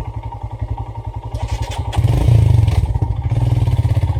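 Royal Enfield Himalayan single-cylinder motorcycle engine running at low revs with an even pulse, then opened up and louder about two seconds in, with some scraping noise mixed in.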